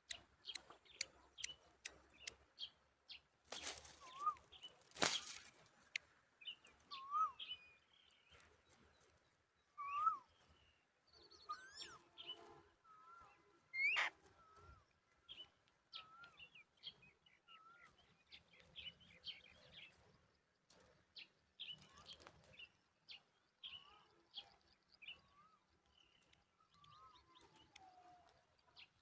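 Birds chirping and calling outdoors: many short, separate chirps and brief up-and-down calls, repeated throughout. About four and five seconds in there are two loud rushes of noise.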